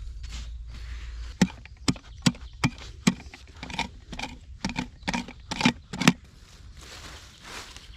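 A run of about eleven sharp impacts, roughly two a second and a little uneven, which stop about six seconds in.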